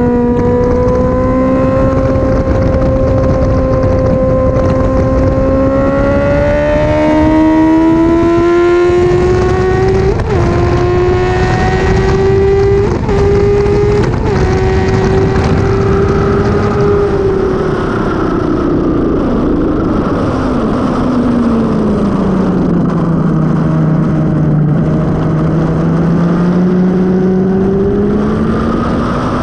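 Suzuki GSX-R750 K5 inline-four with a Mivv carbon exhaust at high revs on track, pitch climbing steadily under acceleration for about fifteen seconds with a few brief breaks. It then falls as the bike slows for a corner and rises again near the end, over steady wind rush.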